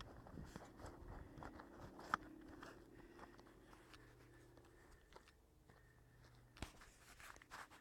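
Faint crackling and snapping of burning wood: irregular sharp clicks, one louder snap about two seconds in and another near the end, over a faint steady hum.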